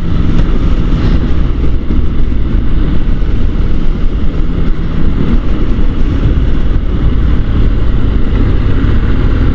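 Motorcycle on the move: steady engine rumble under heavy wind noise buffeting the helmet-mounted microphone.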